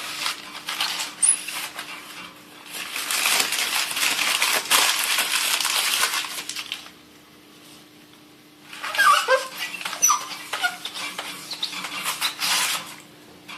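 Wet newspaper being rubbed over the glass door of a wood stove to wipe off ash residue: long stretches of scrubbing with a pause in the middle and a few short squeaks of paper on glass when it starts again.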